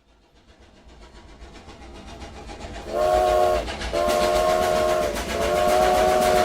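Train sound effect: a rhythmic chugging fades in and grows louder, then the train's whistle sounds a chord of several notes in three blasts, the first short and the last long.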